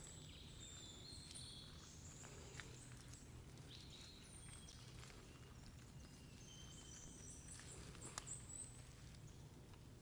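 Faint forest birdsong: many short, high whistled notes from several birds, over a low steady rumble, with a couple of sharp clicks about two and a half and eight seconds in.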